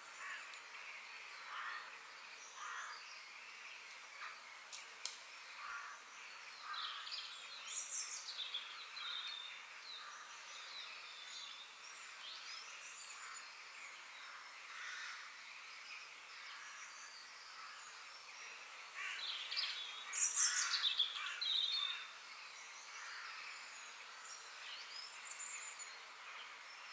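Birds calling and chirping over a steady background hiss, with short calls sliding down in pitch; the loudest run of calls comes about twenty seconds in.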